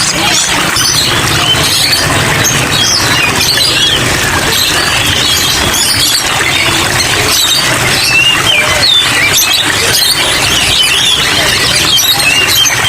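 Many caged songbirds chirping and twittering at once in a dense, overlapping chorus, over a steady hiss of rain.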